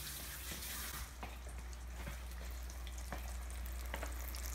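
Falafel balls deep-frying in hot oil in a pan: a steady sizzling hiss with scattered crackles and pops, over a low steady hum.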